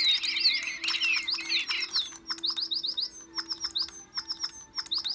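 A small bird chirping rapidly. The quick chirps pile up densely for about two seconds, then come as a run of separate sharp chirps that cut off at the end.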